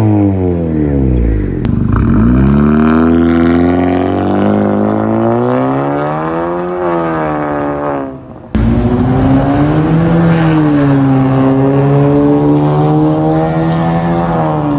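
Honda Civic FC's engine and aftermarket Velvetronic full exhaust: the note rises slowly for several seconds under throttle to a peak, then falls away. After an abrupt cut about eight and a half seconds in, it runs at a steadier pitch with a couple of small rises.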